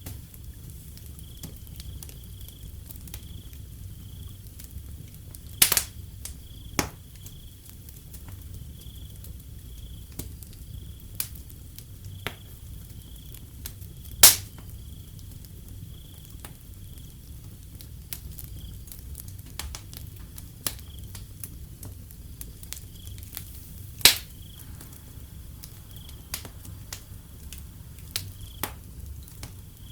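Wood fire crackling, with frequent small snaps and a few loud sharp pops, over a low steady rumble, while crickets chirp in a steady high pulsing trill behind it.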